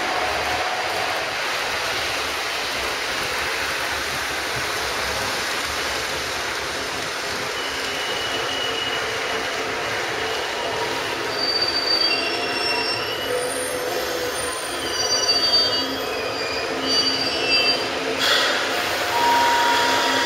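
Model trains running on layout track, with a steady running noise. From about eight seconds in come many short, high-pitched squeals of wheels on the rails.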